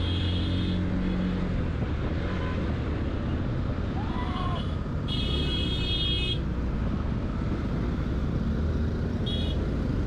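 Motorbike engine running steadily with road and wind rush while riding, and other vehicles' horns tooting briefly three times: at the start, about five seconds in, and near the end.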